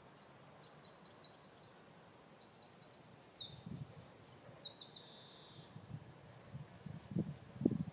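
Small birds chirping and singing in fast, high trills of rapidly repeated notes, which fade out a little past halfway. From then on a few short, low sounds come in, strongest near the end.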